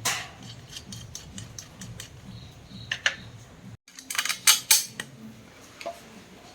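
Metallic clicks and clinks of small metal parts being handled, with a quick run of louder clinks a little past the middle.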